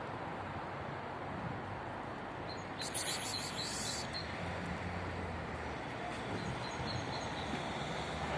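Steady outdoor background noise with a low hum, and a brief burst of high chirping about three seconds in, with a few faint chirps later.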